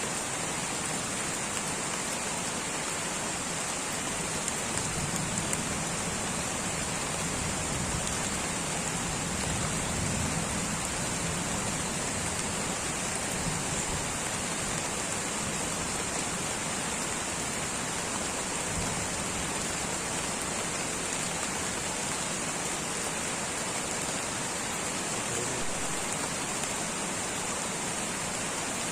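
Light rain falling steadily on rainforest foliage, an even, unbroken patter of drops.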